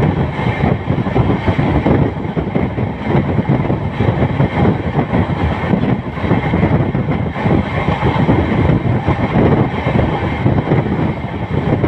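Moving passenger train at speed, its running noise mixed with wind buffeting the microphone held out at the coach's open door or window: a loud, steady rush without a clear rhythm.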